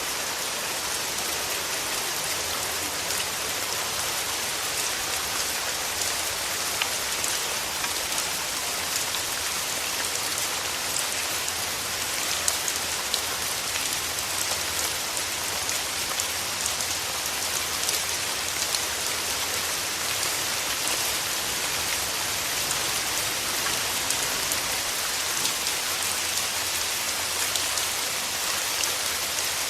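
Steady rain falling, an even hiss with many small sharp drop ticks on the surfaces around.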